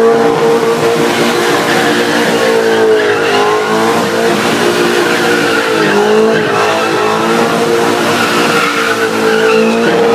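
Chevrolet Matiz with a swapped-in 7.0-litre Corvette V8 held at high revs while doing donuts, its tyres squealing and spinning in a burnout. The engine note stays high and steady, dipping briefly twice, about three and six seconds in.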